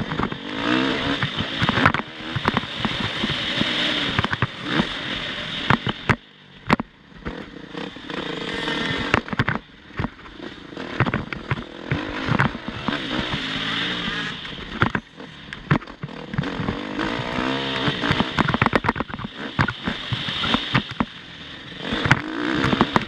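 Motocross dirt bike engines revving hard, the pitch climbing and dropping over and over with brief lulls off the throttle, with many sharp knocks and clatters.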